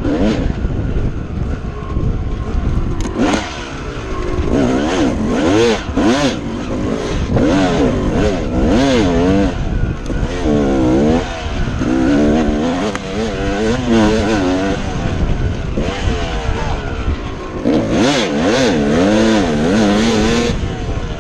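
Yamaha YZ250 two-stroke dirt bike engine being ridden, the revs rising and falling quickly over and over as the throttle is worked, over a steady low rumble.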